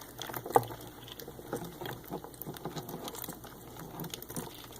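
Hermit crabs moving about, their shells and legs making light, irregular clicks and taps, with one sharper click about half a second in.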